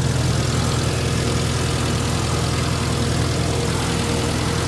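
Subaru boxer flat-four engine idling steadily through an exhaust with the catalytic converter removed. There is a small leak at the joint that was just tightened.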